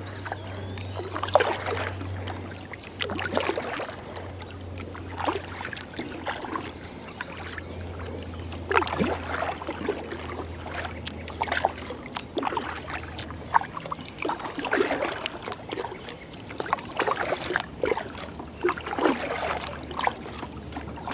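Kayak paddle strokes splashing and dripping in the river water, coming every second or two. A low steady hum sits underneath and fades out about two-thirds of the way through.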